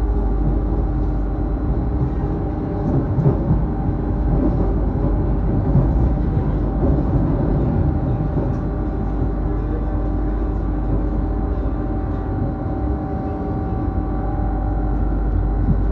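Passenger train running, heard from inside the carriage: a steady low rumble with a constant whine of several held tones over it.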